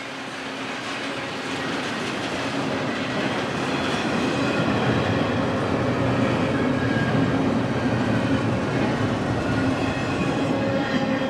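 Freight train rolling past, a steady rumble and clatter of steel wheels on rail that grows louder over the first few seconds and then holds.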